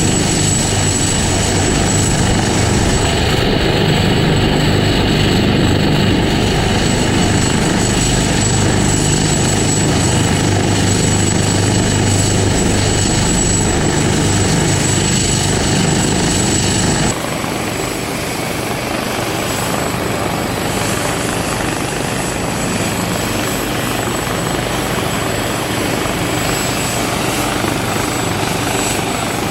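Helicopter running close by, a loud steady rotor and engine noise with a thin high whine over it. About seventeen seconds in the sound changes abruptly, losing the whine and becoming a little quieter.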